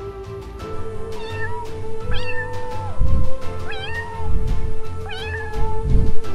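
A domestic cat meowing four times, each call rising quickly and then levelling off, over background music with held notes and heavy low beats.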